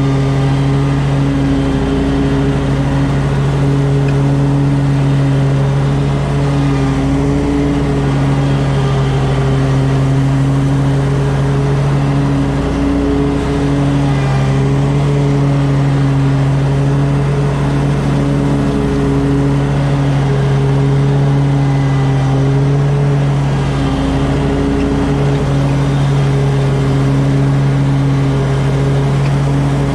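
Lawn mower engine running steadily at full throttle while mowing grass, holding an even pitch with slight brief dips under load.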